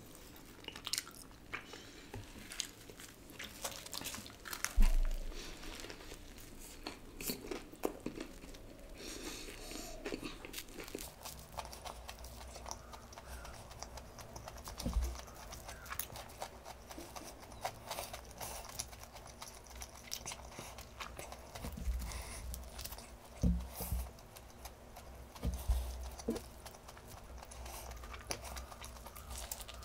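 Close-miked chewing and biting of a fried chicken burger: crunchy breading crackling, with wet mouth sounds, in an irregular run of small crunches. A low thump about five seconds in is the loudest sound.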